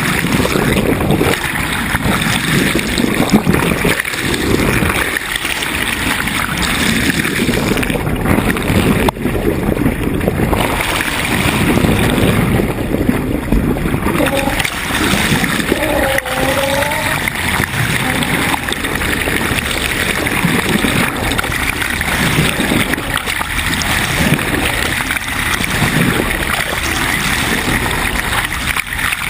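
Water rushing and splashing steadily along the hull of a sailboat under way, with a rough rumble at the low end.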